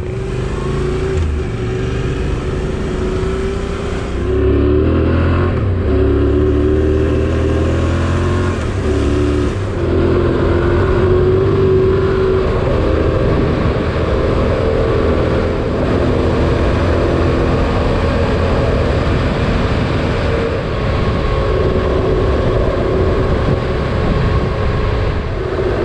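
Motorcycle engine pulling away and accelerating, its pitch rising and breaking at gear changes over the first ten seconds or so, then cruising steadily with wind and road noise.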